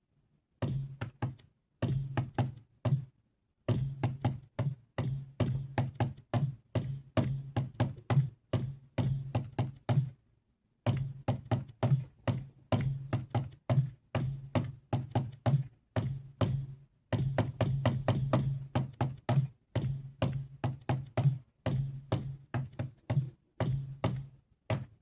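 Drum samples finger-drummed on a Donner Starrypad MIDI controller's pads: a loose beat of short hits, several a second, each a low thud with a sharp click on top. The beat breaks off briefly about three seconds in and again about ten seconds in.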